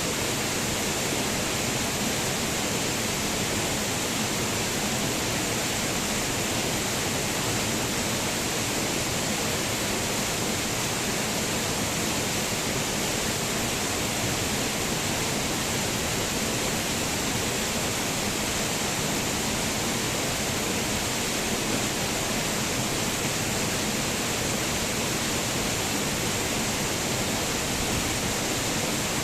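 Waterfall pouring with a steady, unbroken rush of falling water, even from start to finish.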